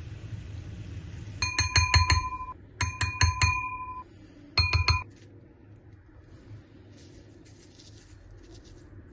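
Glassware clinking: three short runs of clinks, each with a clear ringing glassy tone. The last run comes about two seconds after the first.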